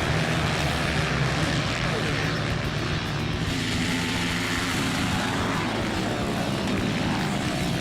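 A pack of 160cc racing motorcycles running together, their engines revving up and down as they race around the dirt track.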